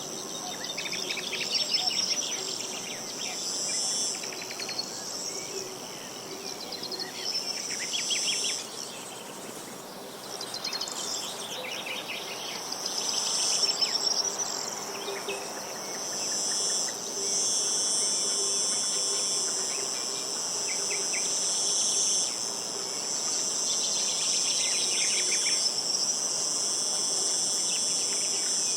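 A steady high-pitched chorus of insects trilling, with small birds singing short trilled phrases every few seconds.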